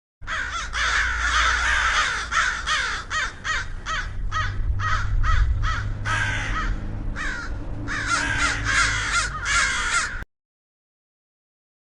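A flock of birds calling in rapid, overlapping calls, several a second, each an arching cry, over a low rumble. The sound starts and cuts off abruptly.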